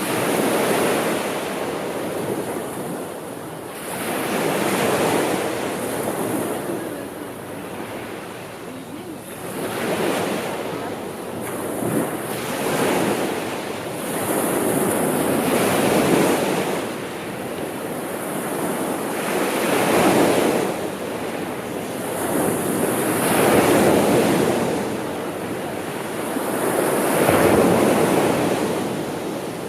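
Sea waves breaking and washing on a shore, swelling and ebbing about every three to four seconds, with some wind.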